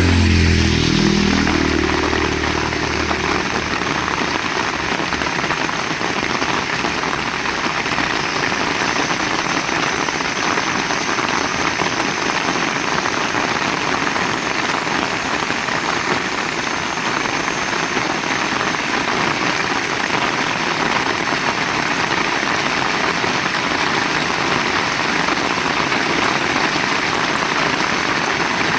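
Heavy rain falling steadily. In the first few seconds a motor vehicle's engine passes, drops in pitch and fades out under the rain.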